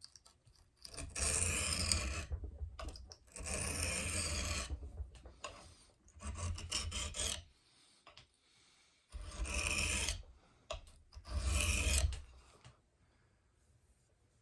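Five slow strokes of a knife edge drawn across a wet, coarse Japanese water stone, each a gritty rasp lasting about a second, grinding the bevel lower to raise more edge.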